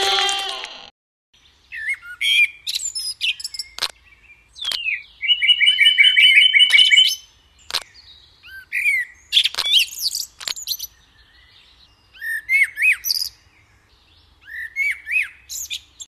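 Songbirds chirping and singing in short bursts of high chirps, trills and whistles, over a faint low hum. They start after an abrupt cut about a second in.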